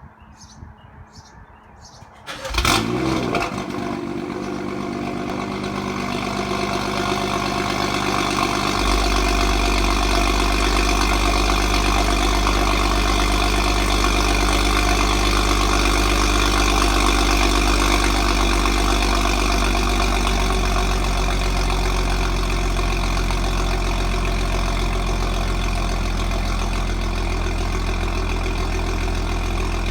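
BMW 435i Gran Coupe's turbocharged N55 straight-six, breathing through an M Performance exhaust with the resonators deleted and a cattless downpipe, starting about two and a half seconds in with a sharp loud flare, then settling into a steady idle. A low drone comes in at about nine seconds and holds. A few faint ticks come before the start.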